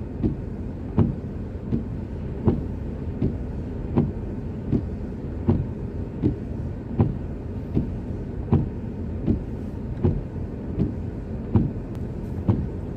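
A car's indicator relay ticking steadily, about one click every three-quarters of a second, over the low rumble of the idling car heard from inside the cabin.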